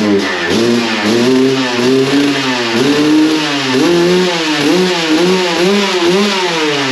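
Suzuki RM250's single-cylinder two-stroke engine revving, the throttle blipped over and over so the pitch keeps rising and falling, then cutting off suddenly at the end.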